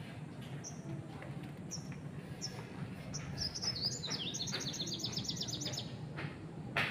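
A small songbird calling and singing: a few separate high chirps, then, about three seconds in, a quick run of high falling notes, several a second, stepping down in pitch and then back up, for about two and a half seconds. A sharp tap sounds near the end, over a steady low background noise.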